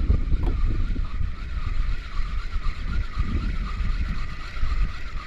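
Wind buffeting the microphone with a heavy, uneven low rumble. Behind it runs a faint, steady whine that wavers regularly a few times a second.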